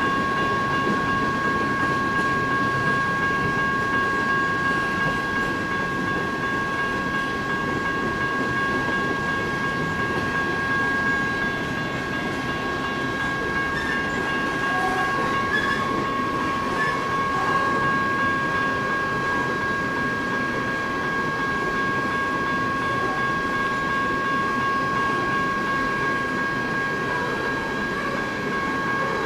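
Coal cars of a BNSF freight train rolling past: a steady rumble and clatter of steel wheels on the rails. Two steady high tones ring over the rumble.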